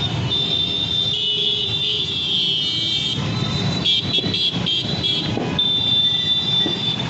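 Road traffic heard from a moving scooter: a steady low engine and road rumble, with vehicle horns honking and a quick run of short beeps about four seconds in.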